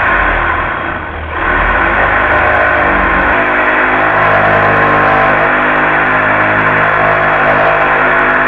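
Reciprocating saw running and cutting through wood. Its level dips briefly about a second in, and its tone shifts a little about three seconds in.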